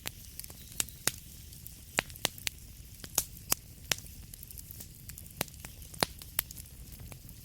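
Wood fire crackling in a fireplace: irregular sharp pops and snaps, a few of them loud, over a steady soft hiss and low rumble.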